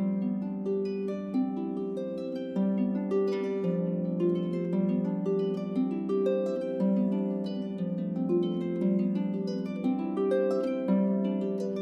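Solo psalmist harp music: plucked notes ringing over sustained low bass notes that change every couple of seconds.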